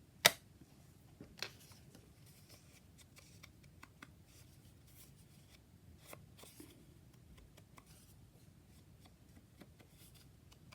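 A sharp click just after the start and a softer one about a second later, then faint scratchy rubbing and light taps as an ink pad is worked along the edges of paper cut-outs.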